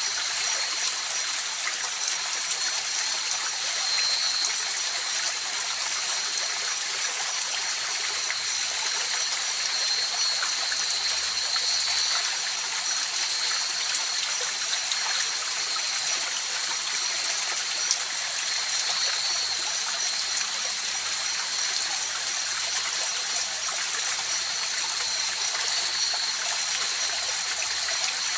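Mountain river flowing steadily, an even rushing and trickling of water over rocks. A steady high-pitched chorus of night insects runs above it.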